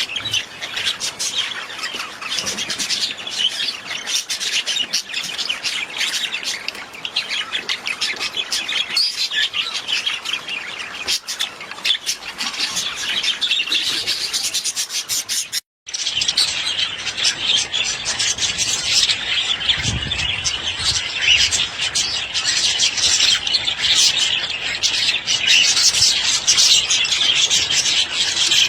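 A flock of budgerigars chattering and chirping without pause, a dense stream of fast, high warbles and squawks. About halfway through it cuts out for a split second, then carries on.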